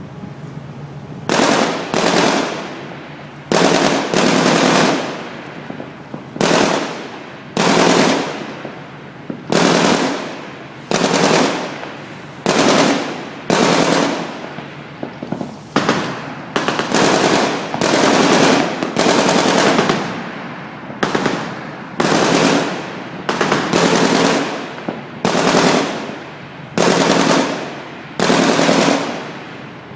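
Gunfire in about twenty short bursts, each sharp at the start, lasting about half a second to a second and trailing off, with a second or so between them.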